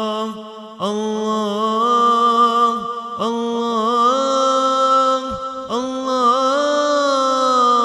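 A single voice singing an Arabic nasheed unaccompanied. It holds long, sliding notes in three drawn-out phrases, with short breaks for breath between them.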